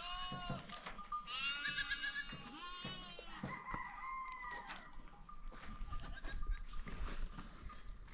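Goat kids bleating: several high, wavering calls in the first five seconds, some overlapping, then quieter.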